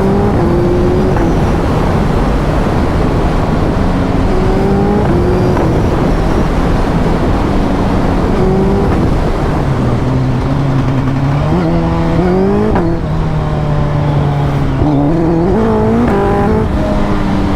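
Suzuki Hayabusa Gen 3's inline-four engine pulling on the move under heavy wind rush. Its note climbs in short steps and drops back several times, most clearly in the second half, as the throttle and gears change.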